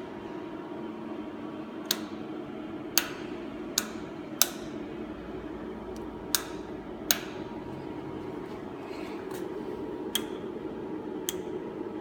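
Steady hum of an optical comparator's cooling fan, with about eight sharp clicks at uneven spacing, the loudest between two and seven seconds in.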